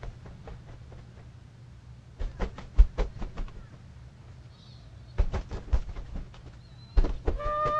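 Three quick clusters of sharp taps over a steady low hum. Near the end, a horn note starts.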